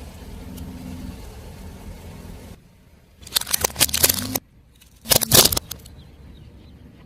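A car engine runs with a low rumble. Then, after an abrupt cut, a tyre rolls over and crushes brittle objects, giving two loud bursts of crunching and crackling about a second apart.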